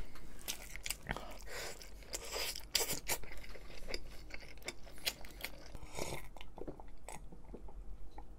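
Chewing a mouthful of meatball spaghetti: a run of short, wet mouth clicks, thinning out near the end.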